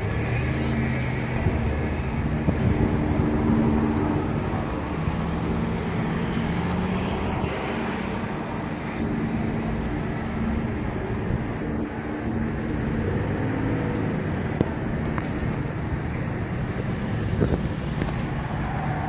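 Street traffic: vehicle engines running and passing, with steady road noise.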